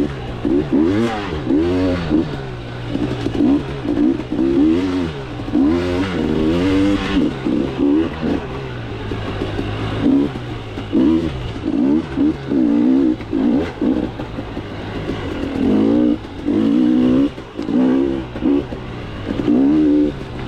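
KTM 300 two-stroke dirt bike engine revving up and down again and again as the throttle is opened and shut along a trail.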